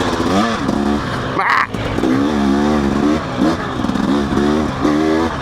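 Dirt bike engine running on a trail, its pitch rising and falling as the throttle is worked, with a brief hiss about one and a half seconds in.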